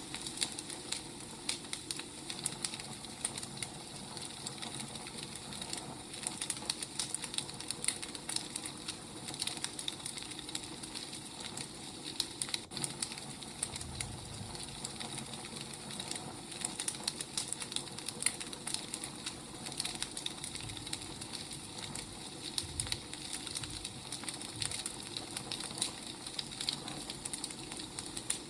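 Wood fire crackling, with frequent small irregular snaps and pops over a steady hiss.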